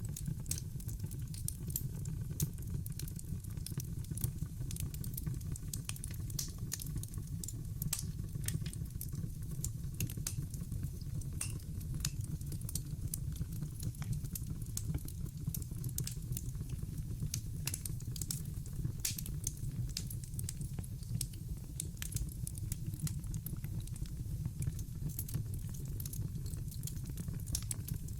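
Logs burning in a fireplace: dense, irregular sharp crackles and pops over a steady low rumble.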